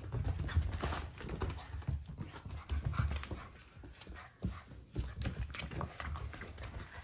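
Two American Bulldog puppies scuffling in play, with many irregular knocks, clicks and low thumps as they tumble about.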